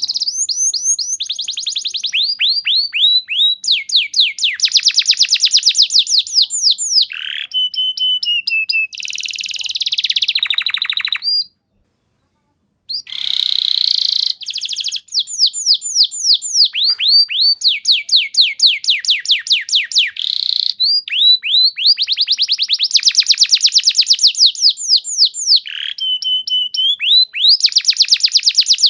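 Domestic canary singing a long song of rapid trills: each trill is a fast run of repeated falling notes, and the runs shift in speed and pitch from one to the next. The song stops dead for about a second roughly two-fifths of the way through, then carries on.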